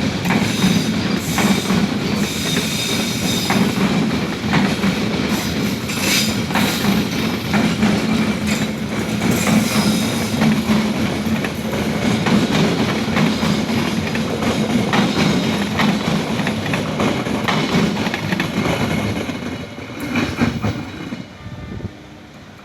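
Passenger train running along the track: a steady low rumble with irregular clatter of the wheels over rail joints. It drops away over the last few seconds.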